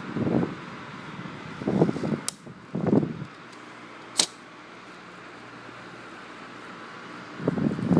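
Electric fan running with a steady whirring hiss, broken by a few short low rumbles and two sharp clicks, the second one loud, about four seconds in.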